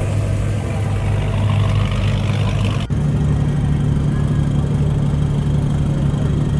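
Car engines running. First an engine whose pitch rises over a couple of seconds, then, after an abrupt cut about three seconds in, another engine idling with a steady, pulsing low rumble.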